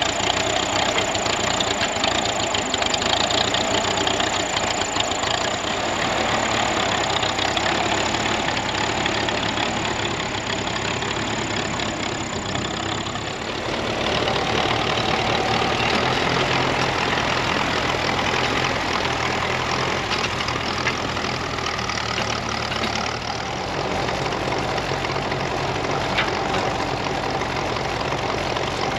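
1954 Ferguson TEA20 tractor's four-cylinder petrol engine running steadily, with a change in tone about halfway through.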